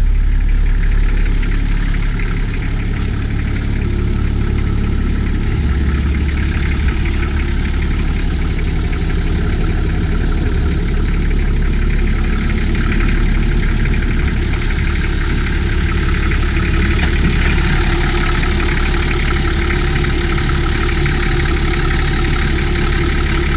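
Rebuilt Toyota 1H straight-six diesel idling steadily soon after a cold start. It sounds brighter from about three-quarters of the way through.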